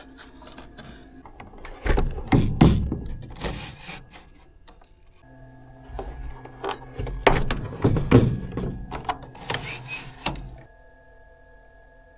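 Irregular knocks and clatter of objects being handled, in two bouts, over a faint steady hum.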